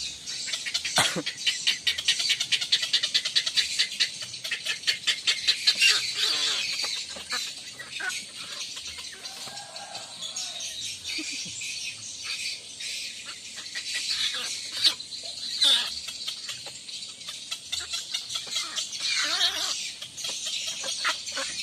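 Agitated bird calls and squawks, with a fast rattle of clicks through the first few seconds and scattered shrill calls after.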